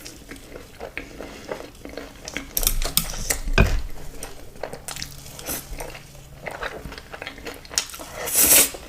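Close-miked eating: crunching bites of crispy fried chicken and chewing, with clicks and clinks of cutlery against a dish. Two louder crunchy stretches come about three seconds in and near the end.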